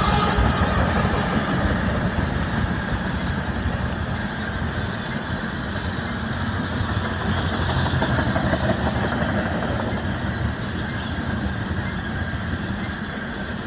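Loaded BNSF coal train rolling past: a steady, heavy rumble of wheels and cars on the rail. The last note of the locomotive horn cuts off at the very start, and the rumble eases a little over the first few seconds, then holds.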